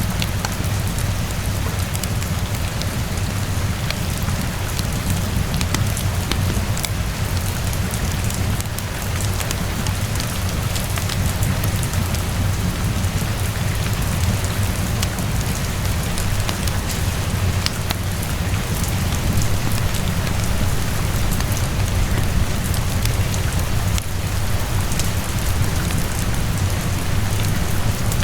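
Steady rainfall with a deep low rumble beneath it, and fine crackles and ticks scattered throughout, as from a fireplace burning.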